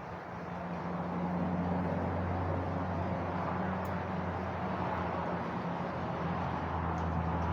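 A steady engine drone with a low two-tone hum, growing louder over the first couple of seconds and then holding steady.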